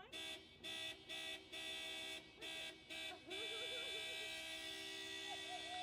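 Car horn honked in about six short blasts, then held in one long blast, sounded as a warning by a car stuck on railroad tracks with a train approaching.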